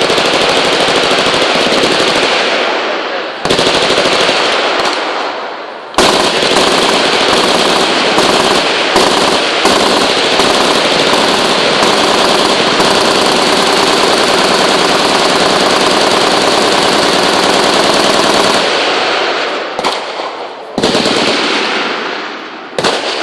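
Machine guns firing in full-auto bursts: a couple of short bursts, then one unbroken stretch of about twelve seconds, then a few shorter bursts near the end.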